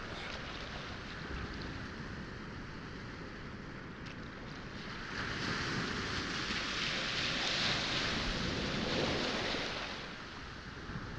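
Sea waves washing onto a pebble shore: a steady wash, with one wave surging up louder about halfway through for several seconds before it draws back and fades.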